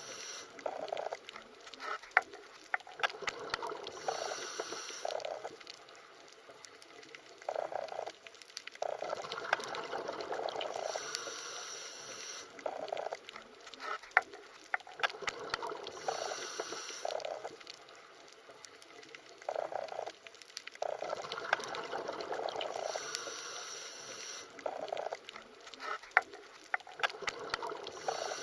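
Underwater water ambience: a bubbling, gurgling wash that swells and fades in a cycle of about six seconds, with scattered sharp clicks.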